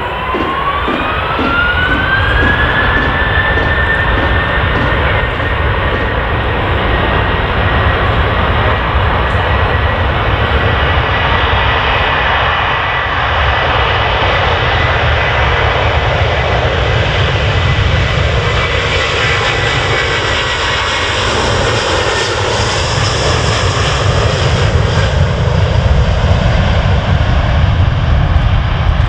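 Jet airliner engines spooling up. A whine rises in pitch over the first three seconds, then holds steady under loud jet noise that grows louder near the end.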